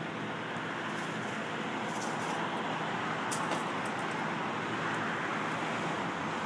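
Steady vehicle noise: an even rumble and hiss that holds throughout with no single event standing out.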